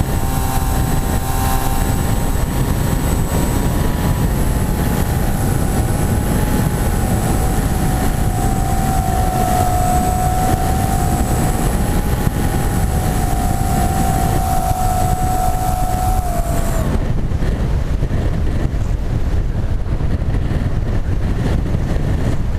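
Wing-X foam flying-wing model in flight, its propeller motor whining at a steady, slightly wavering pitch over heavy wind rumble on the onboard camera microphone. About 17 seconds in the motor cuts off suddenly, leaving only the rush of wind.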